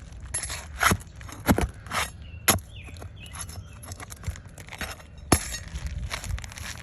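Hand tools knocking and scraping on roof shingles as nails are worked loose: several sharp knocks, the loudest about a second and a half in and again just past five seconds, among lighter clicks and scrapes.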